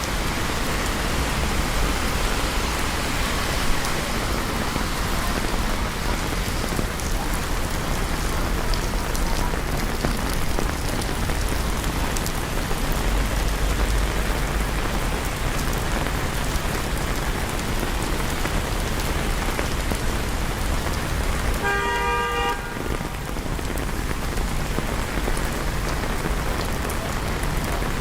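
Steady rain falling on city streets, with a low traffic rumble underneath. A car horn honks once, briefly, about three-quarters of the way through.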